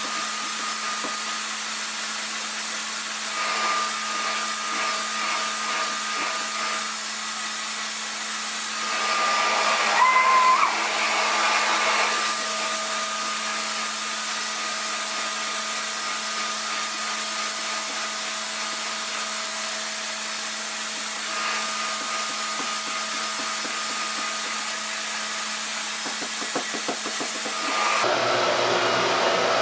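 RevAir reverse-air hair dryer running steadily, a fan whoosh with a low hum and a thin whine; it gets louder for a few seconds about nine seconds in, with a wavering whistle.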